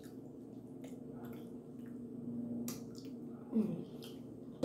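Close-up mouth sounds of a person eating: wet chewing with small lip-smacking clicks, and a short falling 'mm'-like throat sound about three and a half seconds in. A steady low hum runs underneath.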